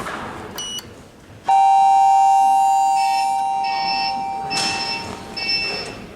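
Elevator signals: a short electronic beep, then about a second and a half in a loud two-note chime that rings on and fades slowly, overlapped from about halfway by a string of repeated high beeps.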